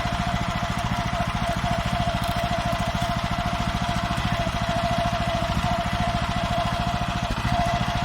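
Farmer 1511 walk-behind tractor's engine running steadily, an even rapid beat of firing strokes with a steady high whine over it.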